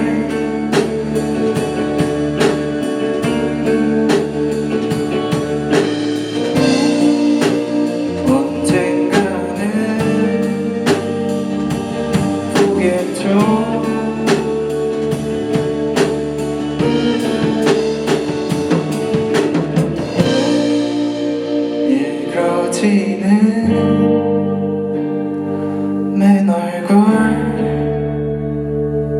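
Live rock band playing, with electric guitar, bass and a drum kit keeping a steady beat. About twenty seconds in the drumming thins out, leaving mostly sustained guitar.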